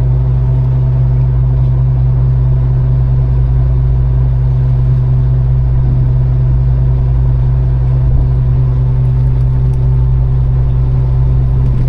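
Fishing boat's engine running at a steady speed: a constant low drone with an even hum of overtones above it.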